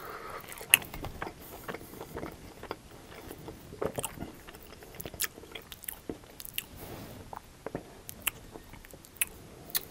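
Close-miked biting and chewing of crunchy breaded chicken wings: irregular sharp crunches as the breading is bitten and chewed.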